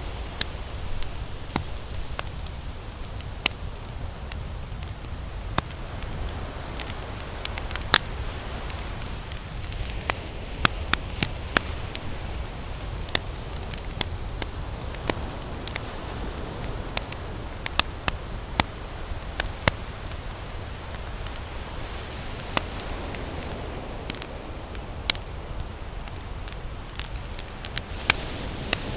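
Campfire crackling, with frequent irregular sharp pops from the burning wood, over a steady low rumble.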